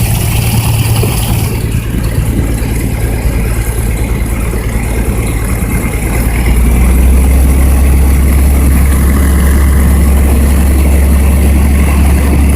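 Small airplane's piston engine and propeller running, heard from inside the cabin as a steady low drone. About halfway through, the note drops lower and gets louder, then holds steady.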